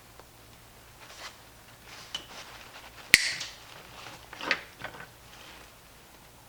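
Handling noises from a small plastic blower fan and its housing being taken out of the inflatable's fabric and turned over on a workbench: light rustling and small clicks, with one sharp plastic click about three seconds in and a short burst of handling just after the middle.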